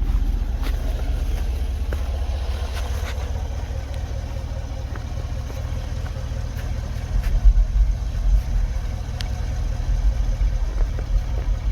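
Cadillac Escalade running, a steady low rumble. From about seven seconds in, deep uneven thumps come on top of it.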